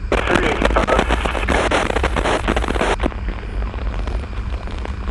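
Steady low rumble of a motorcycle ride, engine and wind, with a burst of hiss for about the first three seconds that then drops away, leaving scattered crackling clicks.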